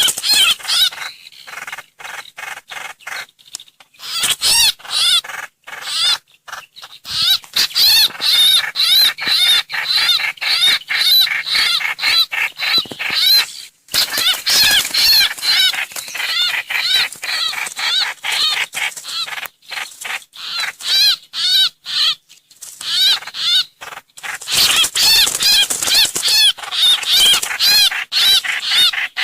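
Recorded song of the bird known in Vietnamese as trao trảo or hoành hoạch, played as a lure call: fast strings of high, looping chirped notes, several a second, in bursts separated by short breaks.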